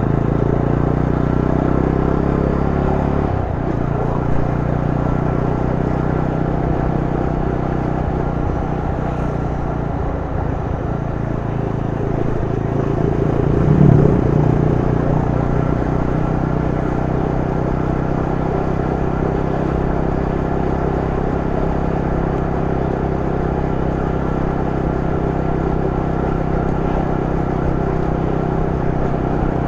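Yezdi Roadster's 334 cc single-cylinder engine running steadily while the motorcycle is ridden. The engine note changes a few seconds in and swells louder briefly about halfway through.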